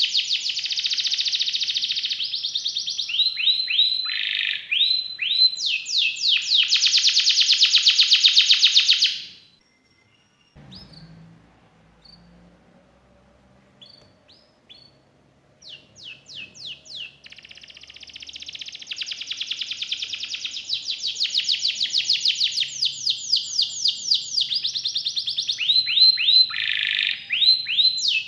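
Domestic canary singing long rolled phrases of very fast, high trills, changing from one trill type to the next. The song breaks off about nine seconds in, gives way to a few scattered single notes, and resumes at full strength after about seventeen seconds.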